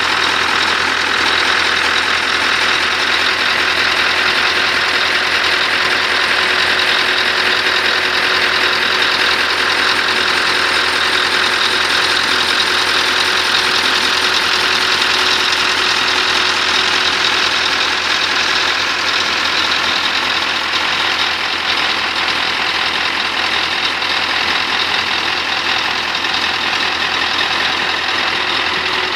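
Scania R500 truck's diesel engine idling steadily.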